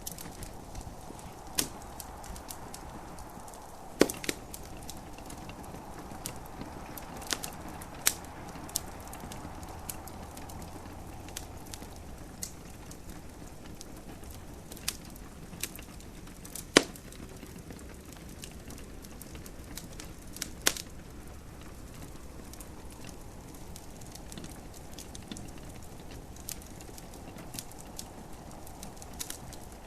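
Wood fire burning in a fireplace, crackling with scattered sharp pops a few seconds apart over a steady soft hiss of gentle rain.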